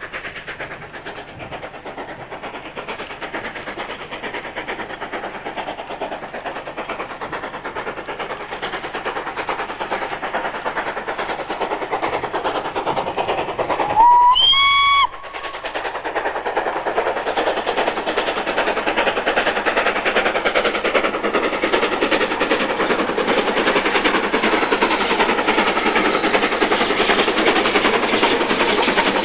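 A steam locomotive working a train towards the listener, its steady chuffing growing louder throughout. About halfway through it gives one whistle blast of about a second that rises slightly in pitch as it opens.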